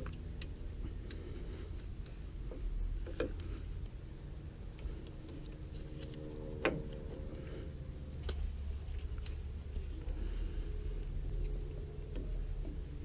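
Scattered light clicks and taps of metal brake parts being handled and fitted during drum brake reassembly, over a steady low hum.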